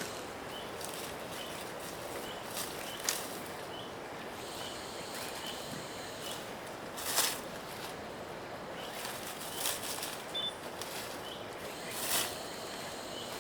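Rainforest ambience: a steady background hiss with a faint short chirp repeating about every half second, and a few brief rustling sounds, the loudest about seven seconds in.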